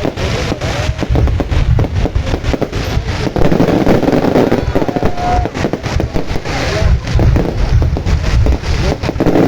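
Fireworks display going off: a dense run of rapid crackling bangs over a deep continuous rumble.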